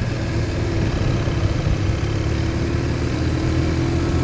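BMW R1200 motorcycle's boxer twin engine running steadily at low speed, with a haze of wind and road noise around it.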